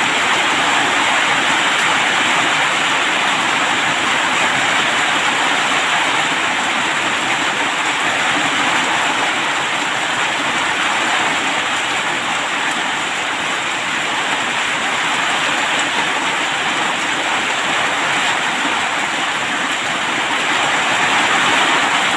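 Steady rain falling, an even, unbroken hiss with no thunder or separate drips standing out.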